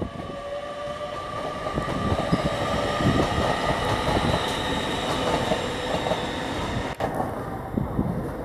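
A passenger train moving through the station: steady rumble of wheels on rails with a high, steady whine over it. The whine cuts off abruptly about seven seconds in.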